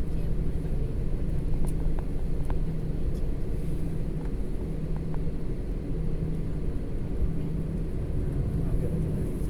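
Steady low rumble of an airliner's engines and airflow heard inside the passenger cabin, with a constant low hum and a few faint clicks.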